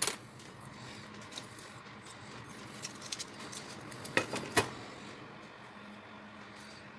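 Metal tools and parts clinking and knocking as they are handled: a sharp clink at the start, a few light ticks, and two louder knocks about four and a half seconds in.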